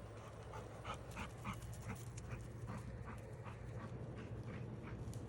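XL Bully dog panting in quick, short breaths, about three a second.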